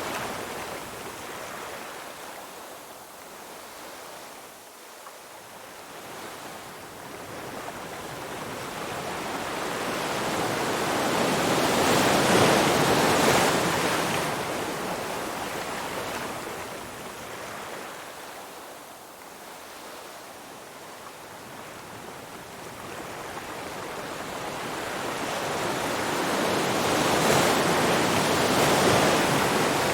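Ocean surf: waves rush in and drain away in slow swells, one building to a peak a little under halfway through and another near the end, about fifteen seconds apart.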